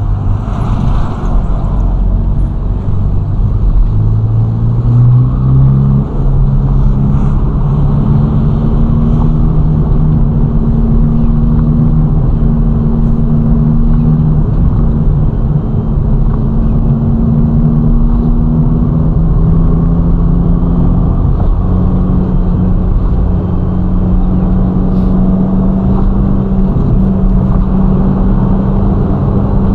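Ferrari Roma's twin-turbo V8 pulling along at highway speed with road noise. The engine note climbs over the first few seconds, then holds steady, with small shifts in pitch past the middle.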